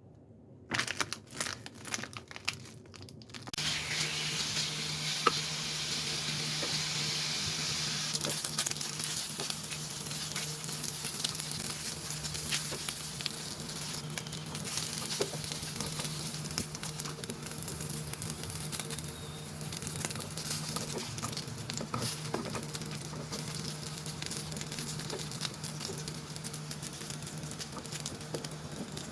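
Chicken franks frying in oil in a pan: a steady sizzle with frequent crackling pops, which starts about three and a half seconds in after a few separate clatters. A low steady hum runs underneath.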